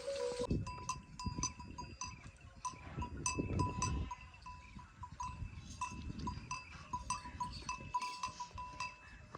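Bells worn by livestock tinkling irregularly as the animals move, with a low rumble under them during the first few seconds.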